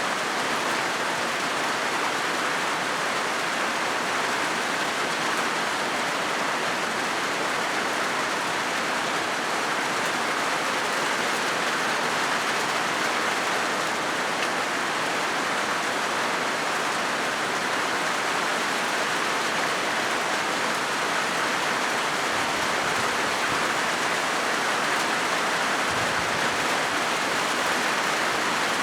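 Steady rain falling on a corrugated zinc metal roof: a dense, even patter of drops on the sheet metal that holds at one level throughout.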